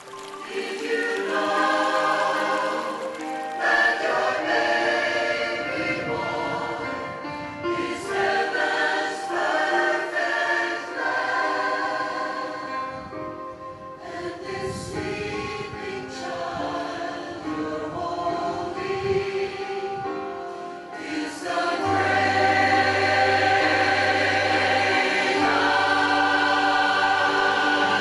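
Choir singing, with sustained, shifting chords. About two-thirds of the way through, the music grows fuller and louder, and a steady low bass line comes in.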